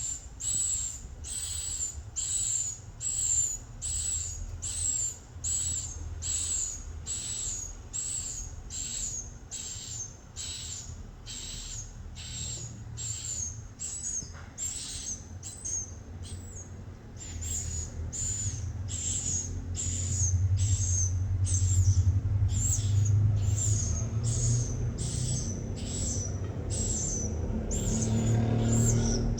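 Swiftlets chirping: a steady run of short, high, falling calls at about two a second, thinning out briefly in the middle.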